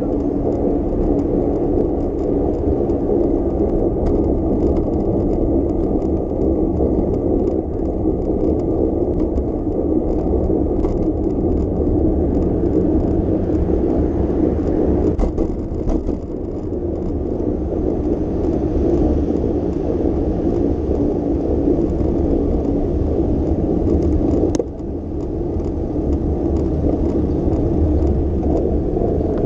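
Steady low rumble of a bicycle being ridden on city streets: tyre and road noise with air rushing past, dipping briefly about 16 and 25 seconds in.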